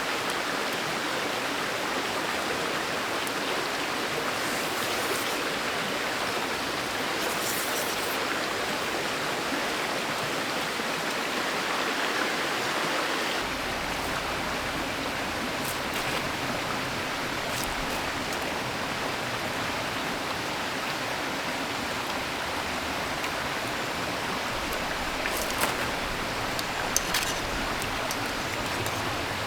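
Mountain valley stream running steadily, with a few faint light clicks over it.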